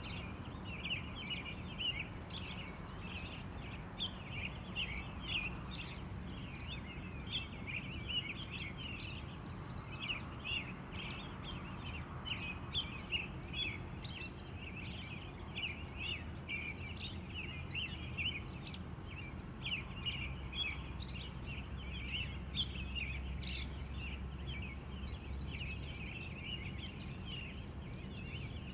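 Wild birds in a morning chorus, a dense, continuous run of short chirps with a few higher sweeping notes now and then, over a steady high insect trill and a low background rumble.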